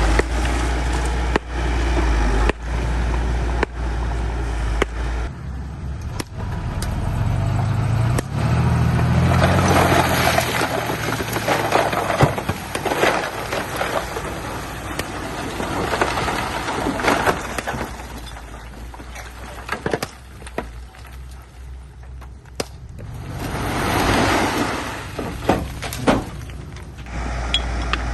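Bulldozer's diesel engine running under load while its blade pushes dirt and stone, with bouts of scraping and crunching full of sharp knocks from the stones. The engine's low drone is strongest in the first few seconds and again near the end.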